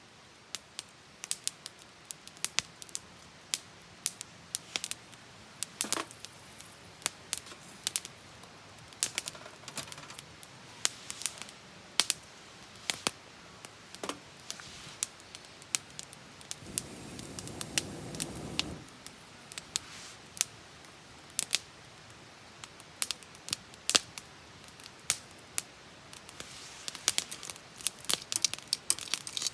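Wood campfire crackling, with irregular sharp pops and snaps, several a second at times. A soft rushing noise swells for about two seconds a little past the middle.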